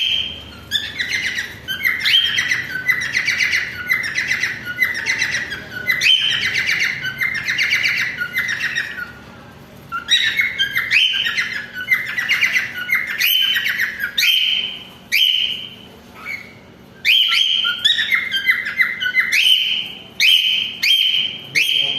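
A cockatiel calling in a long run of short chirps and whistled notes, repeated over and over. The calls pause briefly about ten seconds in and again about sixteen seconds in.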